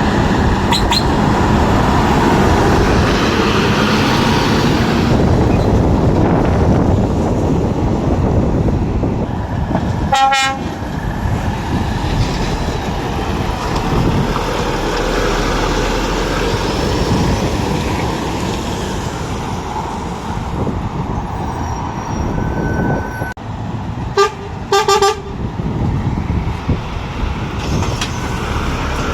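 Heavy lorry engines and traffic running steadily. A truck horn gives a short toot about a third of the way in, then two quick blasts in a row later on.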